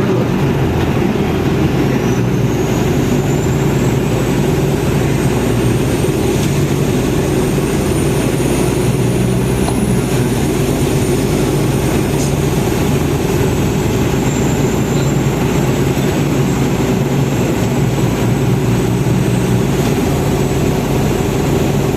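Trolleybus in motion, heard from inside: a steady rumble and hum, with a thin high electric whine that rises about two seconds in and then holds, dipping slightly partway through.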